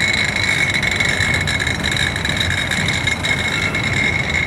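Freight train rolling slowly past with a low rumble and a steady high-pitched dragging sound, which the onlookers take for something loose on the train.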